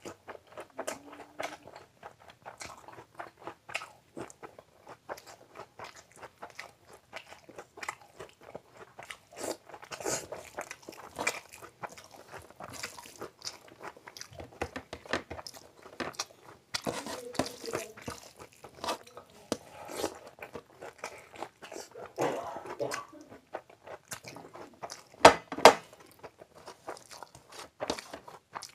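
Close-miked chewing and biting of a man eating fried rice and Manchurian by hand, a steady run of small clicks and crackles. Two sharp, loud clicks come close together near the end.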